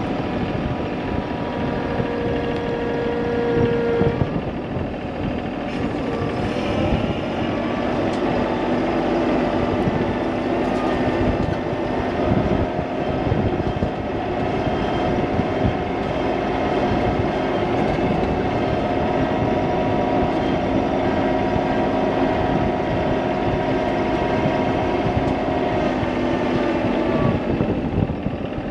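An engine running steadily, its pitch shifting about four seconds in and again about seven seconds in.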